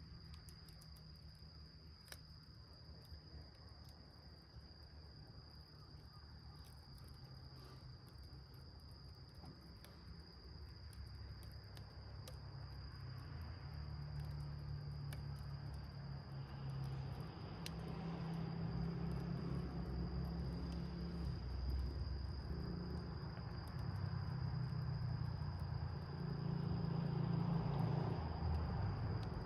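Small wood fire burning in a milk-can stove, with scattered light crackles and a low rumble that grows louder over the second half. A steady, high insect trill runs underneath.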